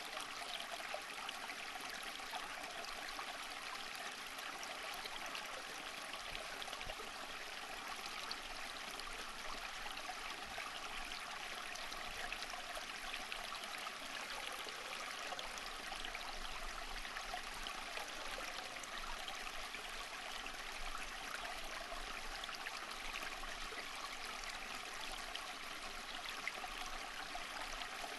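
Running water of a stream, a steady babbling and trickling.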